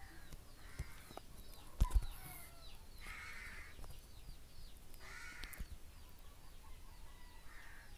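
Faint harsh bird calls in the background, repeated four times, with thin high chirps between them. A single sharp knock comes about two seconds in.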